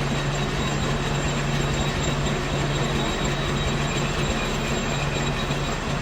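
Metal-working lathe running steadily, a continuous machine hum with a noisy hiss over it.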